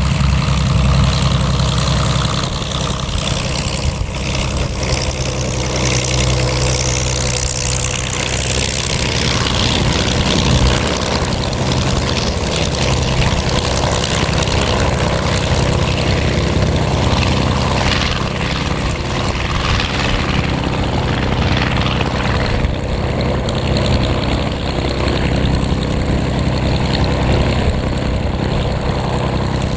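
A WWII fighter's liquid-cooled V-12 piston engine running steadily with a loud, even, low drone.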